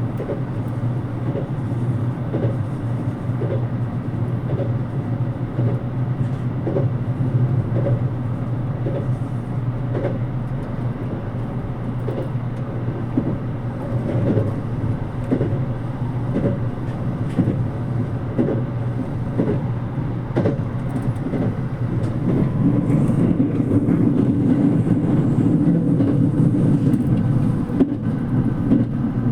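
JR Kyushu 787 series electric express train running, heard from inside the carriage: a steady rumble with wheels knocking over rail joints at an even rhythm. The running noise grows louder about three-quarters of the way through.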